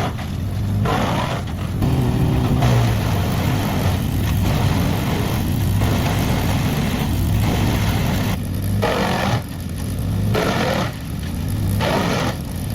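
Wood chipper's engine running under load, with repeated short bursts of shredding noise every second or two as wood is fed through and chipped.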